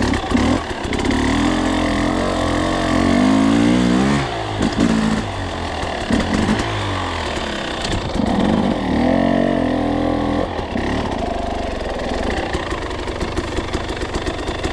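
Two-stroke dirt bike engine running at fairly low revs, its pitch rising and falling several times as the throttle is worked.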